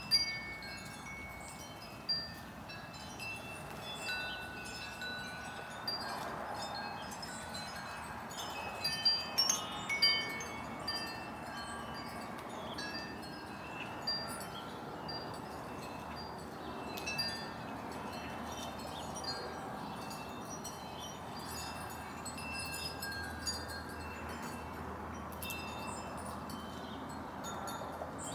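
Wind chimes ringing irregularly: many short, clear tones at several different pitches, over a steady background hiss.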